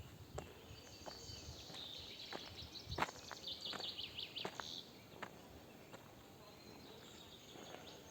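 Quiet forest-park ambience with a small bird giving a quick high trill about three and a half seconds in, and scattered soft clicks throughout.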